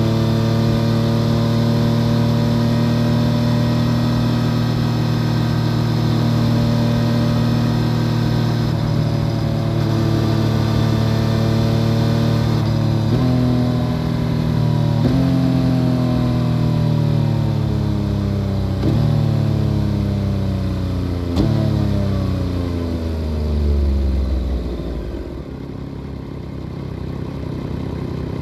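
2014 Yamaha FZ-09's 847 cc inline-three with an Akrapovic full exhaust system, heard from under the seat. It holds a steady high-revving cruise for about twelve seconds, then slows down through four downshifts: each is a quick blip up in revs followed by a falling engine note. It settles to a low rumble near the end.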